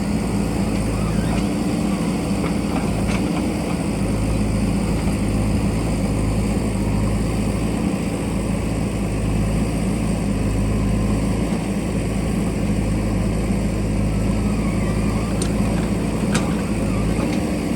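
JCB backhoe loader's diesel engine running steadily at an even pitch, with a few faint knocks near the end.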